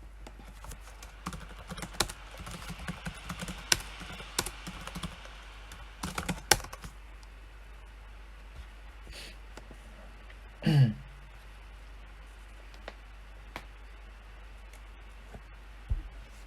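Typing on a PC keyboard: quick runs of key clicks in the first half, then scattered single keystrokes. About two thirds of the way in comes a brief, loud sound that falls in pitch, and a low thump just before the end.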